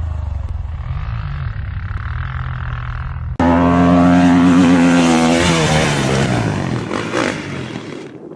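Dirt-bike engine running, then an abrupt switch about three and a half seconds in to a much louder engine at high revs, its pitch dropping off as it fades.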